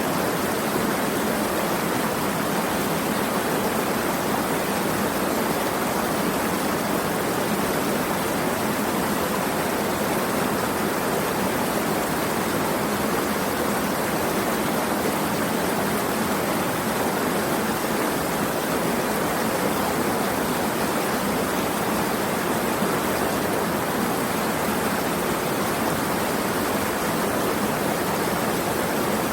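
Steady, unbroken rush of running water, like a stream or small waterfall, with no change in level.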